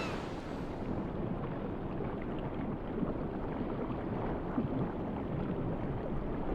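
Sea water sloshing and churning, a muffled, steady wash with no distinct splashes or calls.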